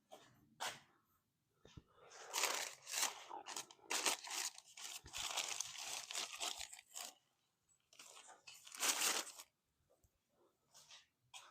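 Wiping down a freshly drilled half-inch steel plate: a long stretch of rubbing strokes, then a shorter one a second or so later, with a few light knocks at the start.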